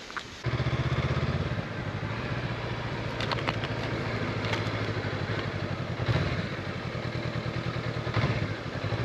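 Honda CB500X's parallel-twin engine starting up about half a second in, then running steadily at low speed, with a couple of brief louder throttle swells about six and eight seconds in.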